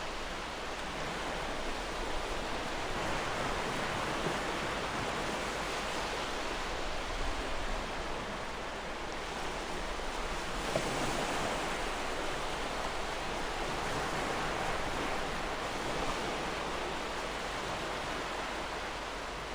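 Gentle ocean waves washing ashore: a steady, even hiss of surf.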